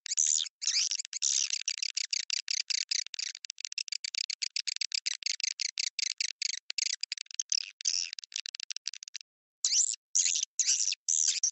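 Swiftlet lure-call recording: rapid, dense runs of short high chirps like edible-nest swiftlets twittering. It breaks off briefly about nine seconds in, then resumes with more widely spaced chirps. This is a call sound played in swiftlet nest houses to draw the birds in.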